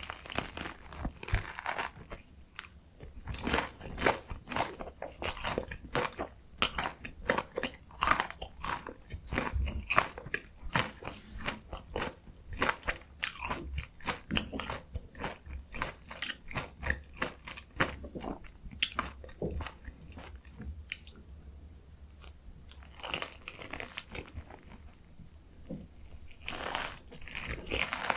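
Crunching bites and chewing of a potato mozzarella corn dog, with dense irregular crunches that thin out after about twenty seconds before picking up again near the end.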